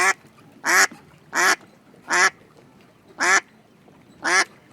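A duck quacking: six short, loud quacks in a fairly even rhythm, a bit under a second apart.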